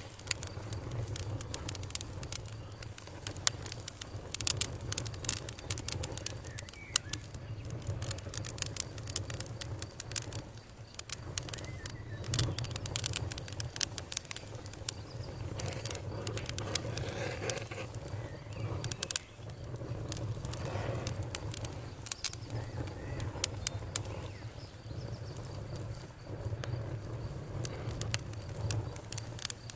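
Campfire burning, the wood crackling with frequent sharp snaps and pops over a steady low rumble.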